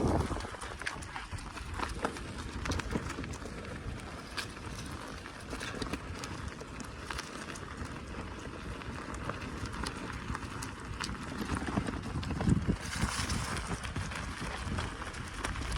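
Bicycle rolling over rough ground, with scattered clicks and rattles from the tyres and frame, and a louder stretch of hiss near the end.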